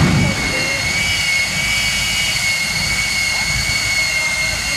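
Jet engine of a jet truck running steadily and loudly: a high, even turbine whine over a dense rushing roar, with a brief low surge right at the start.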